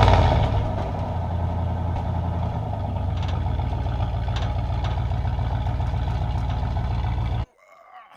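Car engine catching with a loud flare and settling into a steady idle. It cuts off suddenly about seven seconds in.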